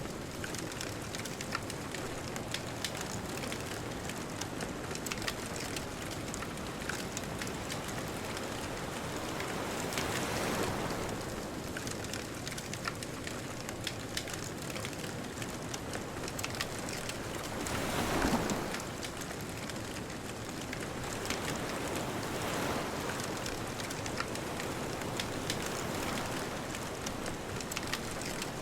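Bonfire crackling with constant small pops over a steady hiss, while ocean waves wash in and draw back, swelling about ten seconds in, most strongly near eighteen seconds, and again a few seconds later.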